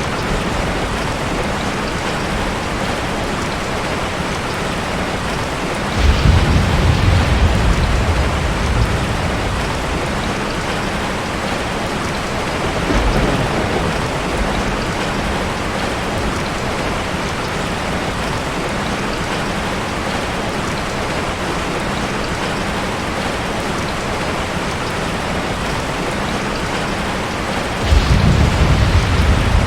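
Heavy rain falling steadily, with rolls of thunder: a sudden deep rumble about six seconds in that lasts a few seconds, a fainter one around thirteen seconds, and another starting near the end.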